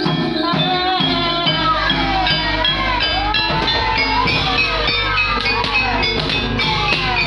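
Javanese gamelan music accompanying an ebeg hobby-horse dance: struck metallophones and drum keep a steady pulse while a wavering melody line bends up and down above them.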